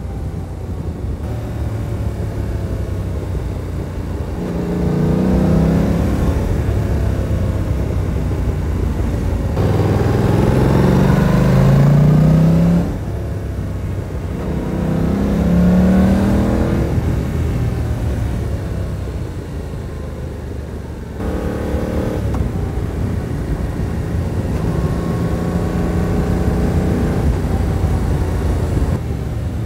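Yamaha R7's parallel-twin engine pulling under throttle as the bike accelerates. Its note climbs in pitch several times, dropping back sharply between pulls, over a steady low rumble.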